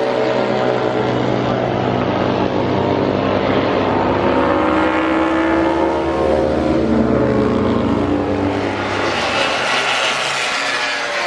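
Motorcycle engine running loud, its note wavering up and down in pitch. About nine seconds in, the low engine sound fades and a higher hiss takes over.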